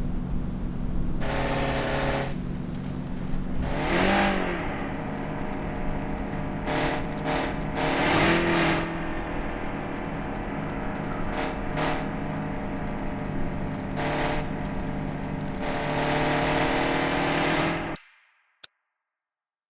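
Car engine and road noise during a drive: a steady engine hum that swells and eases several times as the engine note rises and falls. The sound cuts off abruptly near the end, followed by a single faint click.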